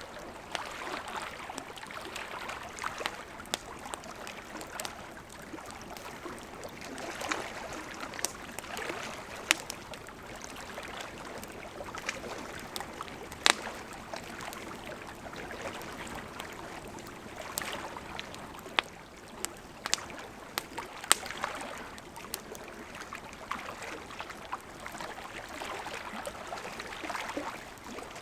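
Gently flowing river running steadily, with a wood campfire crackling over it: scattered small crackles and a few sharp pops.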